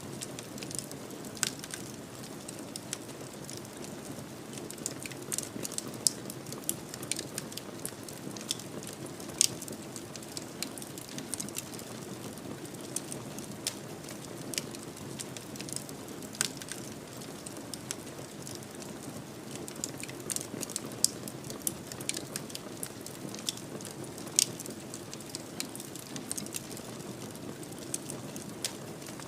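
Wood fire burning in a fireplace: a steady soft rush of flame with frequent irregular sharp crackles and pops, a few louder snaps among them.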